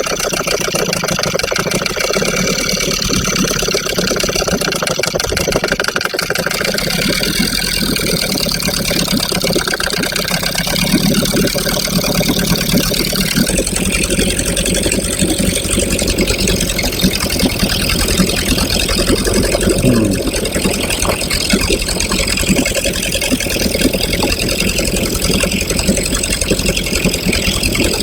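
Small outboard motor running steadily at low speed, its water pump impeller now working and cooling the engine.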